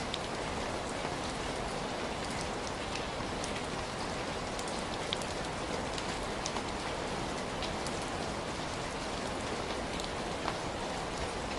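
Heavy rain falling steadily, an even hiss with individual drops ticking sharply here and there.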